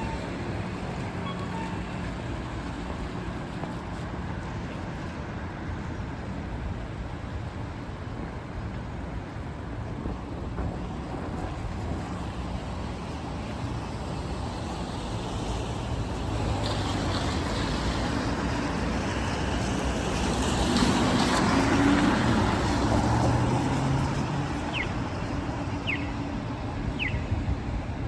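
Heavy rain on a city street with traffic, tyres hissing on the wet road; one vehicle passes, loudest a little past the middle. Near the end, a run of short high chirps about once a second.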